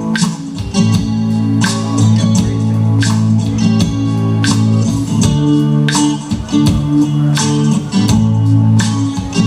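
Live band's instrumental passage in a reggae groove: electric guitar and bass holding chords, with sharp strummed strokes on a steady beat about twice a second.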